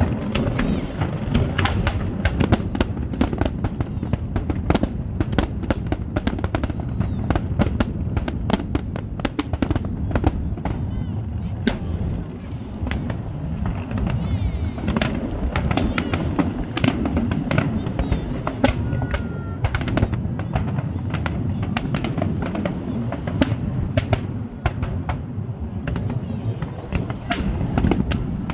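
Fireworks going off in a continuous barrage: many rapid sharp cracks and pops over a dense, steady low booming.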